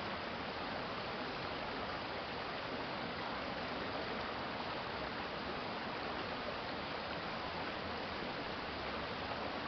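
Stream water running over a shallow bed, a steady, even rush of flowing water.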